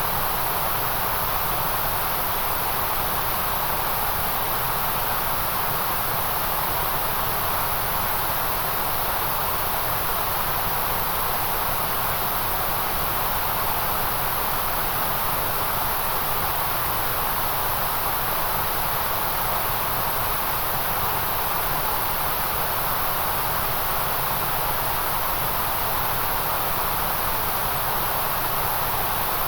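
Steady electronic white noise: a constant, unchanging hiss with no rhythm or breaks.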